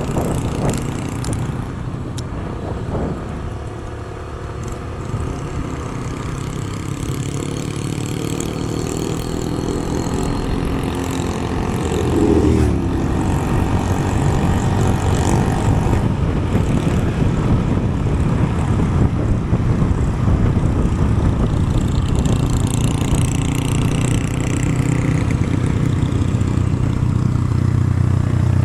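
Vehicle under way: the engine runs steadily under road and wind noise. About twelve seconds in, its pitch drops, and then it runs a little louder.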